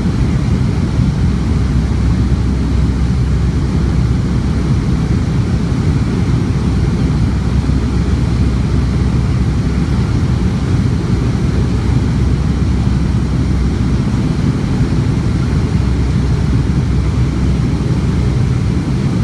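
Steady jet engine and airflow noise heard inside the cabin of a Boeing 757-200 during takeoff: a constant low rumble at an even level.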